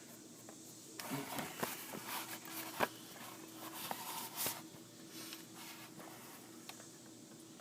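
Faint handling noise: rustling and a few light knocks over a low, steady hum.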